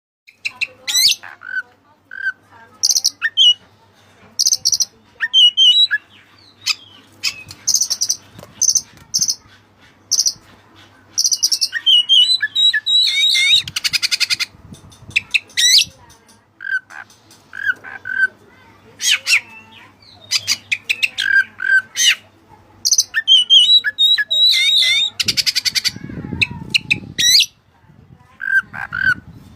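White-breasted oriental magpie-robin (kacer dada putih) singing vigorously: repeated short whistled and chattering phrases with two rapid buzzy trills, its song carrying imitated cililin phrases it was trained on. A low rustle sounds briefly near the end.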